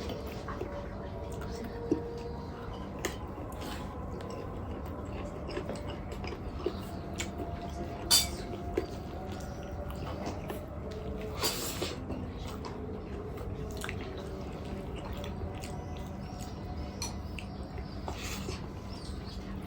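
A person eating air-fried chicken close to the microphone: wet chewing and mouth sounds with scattered sharp clicks, the loudest about eight seconds in, over a steady low hum.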